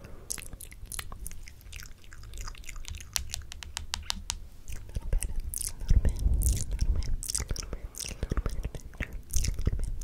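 ASMR mouth sounds close to the microphone: rapid wet clicks and smacks in quick, irregular runs, over soft low thuds and rubbing.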